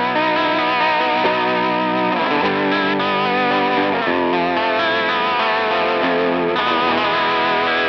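Electric guitar played through a Line 6 Pod Go, using its AC30 amp model with Minotaur overdrive and a vibrato effect, strumming sustained chords that waver steadily in pitch. The chords change about every two seconds.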